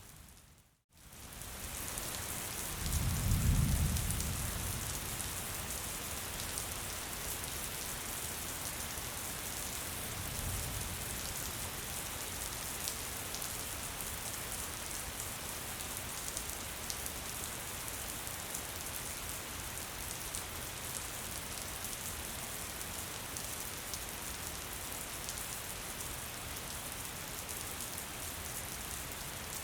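Steady gentle rainfall, an even hiss of many drops. It cuts out almost to silence just under a second in and fades back up. A low rumble swells about three seconds in, with a fainter one near ten seconds.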